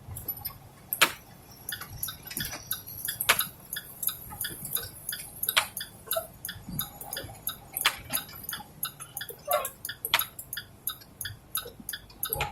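Rapid, regular ticking, with a sharper, louder click about every two and a half seconds, over a low steady rumble.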